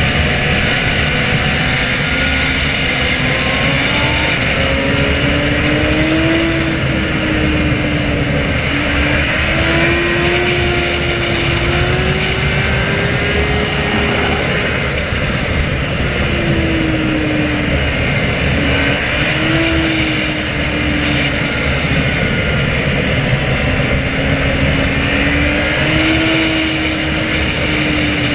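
Sport motorcycle engine running under load, its note rising and falling again and again as the throttle is opened and closed, over a steady low rush of noise.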